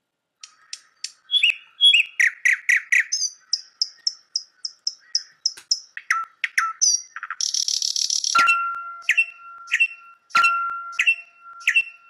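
Recorded birdsong played back: quick runs of high chirps and trilled notes. About two-thirds of the way through comes a short buzzy burst, then a series of repeated sharp chirps over a steady high tone.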